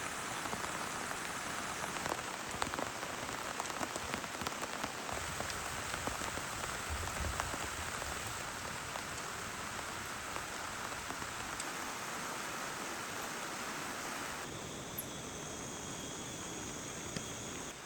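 Steady heavy rain falling, with many individual drops tapping sharply on a surface. Near the end the rain's sound shifts and a faint, steady high tone joins it.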